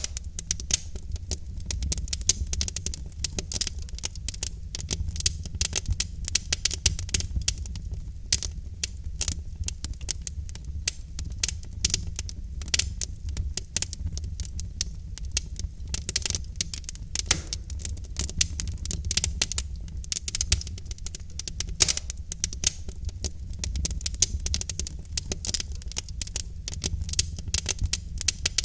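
Wood fire of burning logs in a fireplace crackling: dense, irregular snaps and pops over a low steady rumble of the flames.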